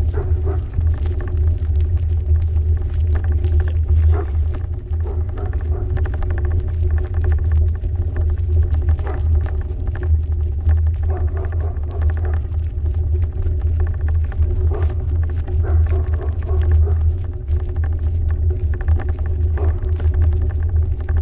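Riding noise of a moving bike: a steady low rumble with frequent small rattles and knocks.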